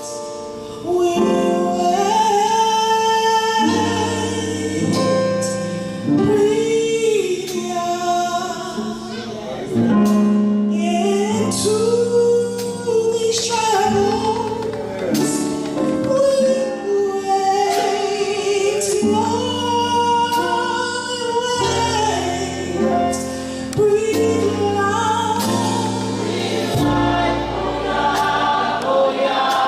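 A choir singing a praise song with instrumental backing, sustained sung lines over held bass notes.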